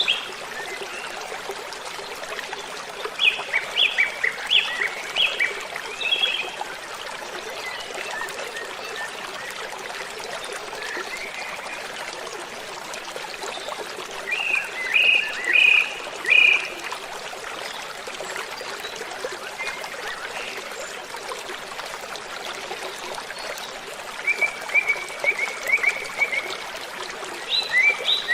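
Waterfall rushing steadily, with a songbird singing quick runs of short high notes several times over it.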